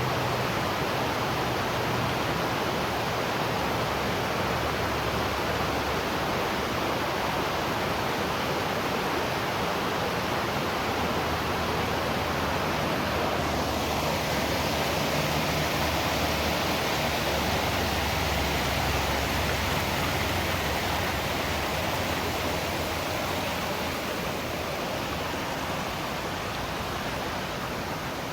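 Waterfall rushing steadily, a dense even roar of falling water, easing slightly in level near the end.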